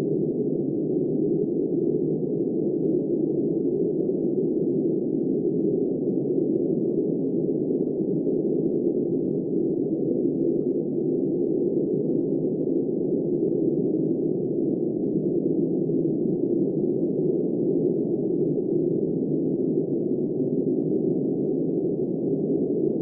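Steady, muffled wind noise, a dull even rush with no hiss above it and no gusts, rising or falling.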